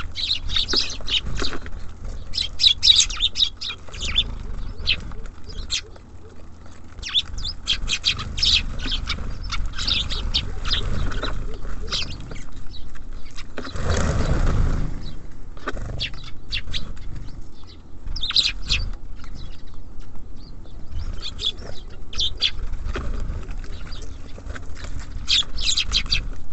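Small songbirds, tits and sparrows, chirping and calling at a bird feeder, with many short high chirps coming in clusters throughout. A brief rushing noise lasts about a second roughly halfway through, over a steady low rumble.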